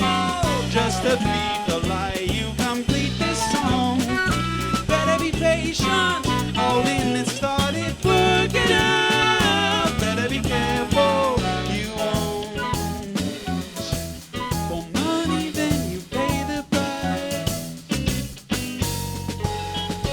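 A live band playing an instrumental passage: drum kit and bass keeping a steady beat under a bending melodic lead line, which thins out about twelve seconds in, leaving mostly drums and bass.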